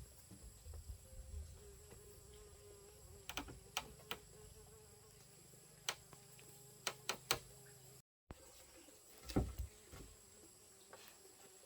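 Insects buzzing steadily, with a scattering of sharp clicks or knocks and one louder low thump after a brief break in the sound.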